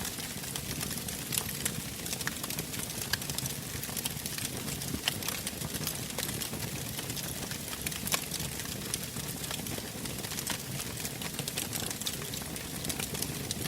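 Wood fire burning in a fireplace, crackling with frequent sharp irregular pops and snaps over a steady low hiss of the flames.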